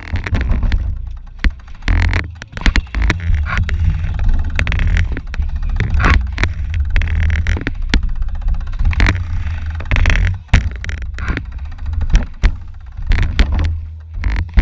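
Low wind rumble on the microphone with frequent, irregular sharp clicks and rattles.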